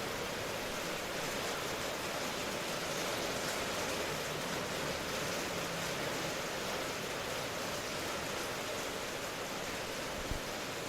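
Steady rain, heard as an even hiss with no distinct drops standing out, and a single brief low thump near the end.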